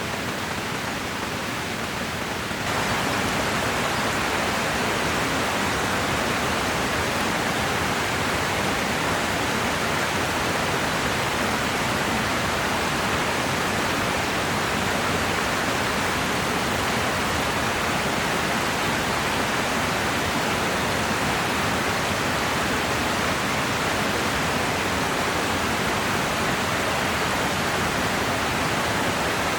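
Steady rush of a flowing river, getting a little louder about three seconds in.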